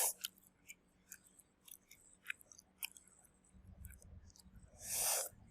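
A person chewing fried chicken, with scattered small wet clicks and crunches, and a loud breathy puff near the end.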